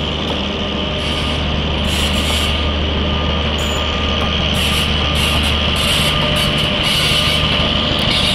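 Steady running noise of trains moving side by side: a continuous rushing rumble with a constant low hum and short bursts of high hiss.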